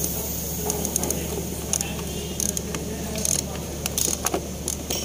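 Hand tools clicking and clinking against metal parts in irregular short strokes while engine accessories are being fitted. A steady low hum runs underneath.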